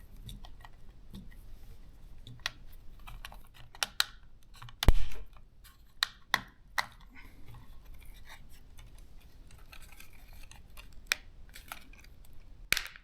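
Scattered small plastic clicks and taps as the upper shell of a DJI Mini 3 drone is pressed back onto the body and its clips snap into place. The loudest clicks come about five seconds in and near the end.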